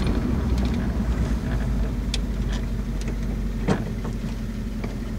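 1966 Chevy Biscayne's 396 big-block V8 running steadily at low revs, heard from inside the cabin, with a few light clicks and one short knock past the middle.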